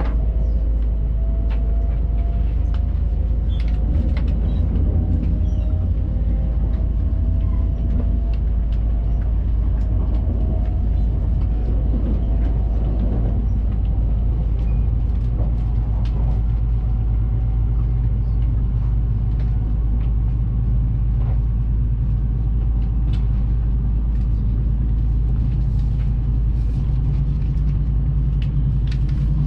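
Running noise of a Hayabusa shinkansen heard from inside the passenger cabin: a steady rumble, with a faint whine slowly rising in pitch over the first half.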